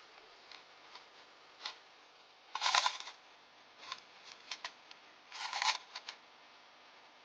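Handling noises from marinating chicken: two short bouts of rustling, about two and a half and five and a half seconds in, with a few scattered light clicks between them.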